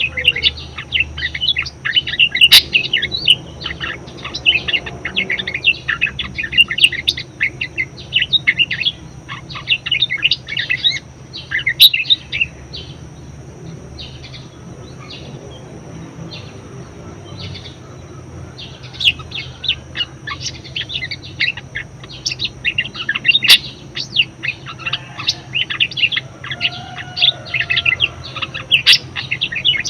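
Budgerigar chattering: a fast, continuous stream of short high chirps and warbles. It thins out to a few scattered notes about halfway through, then picks up again.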